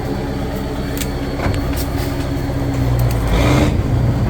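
Off-road trial truck's engine running steadily, getting louder about three seconds in.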